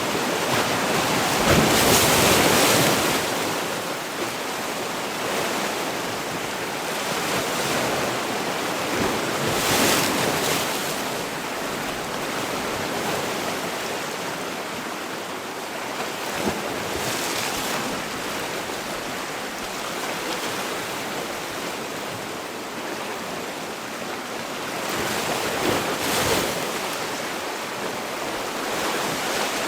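Sea waves breaking on the shore in a continuous wash, with the surf swelling louder about every eight seconds, most strongly near the start.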